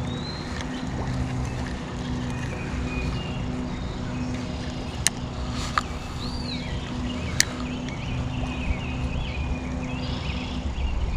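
Steady low outdoor rumble with a faint pulsing hum, scattered high chirping calls, and two sharp clicks, about five and seven and a half seconds in.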